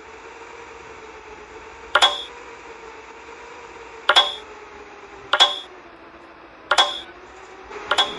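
Hard plastic toy pieces clicking and tapping together, five sharp clicks spaced a second or two apart, two of them doubled, over a faint steady hum.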